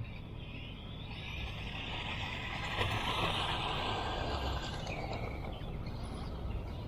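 Radio-controlled drift car with a brushed electric motor running on a speed run, its motor and hard drift tyres on the road growing louder toward about three seconds in, then fading.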